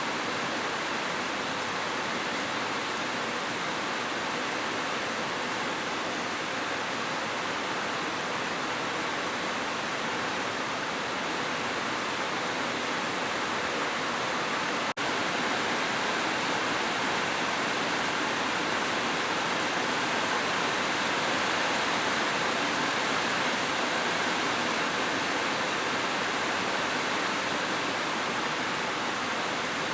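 Heavy rain falling steadily as an even hiss. About halfway through, the sound drops out for a split second, then carries on slightly louder.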